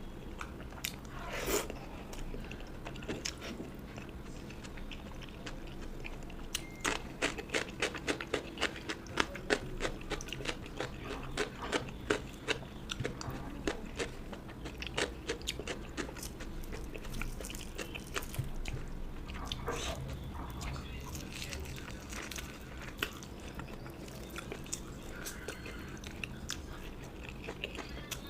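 Close-miked chewing and biting, with many sharp crunches that come thick and fast about a third of the way in, then thin out to slower chewing.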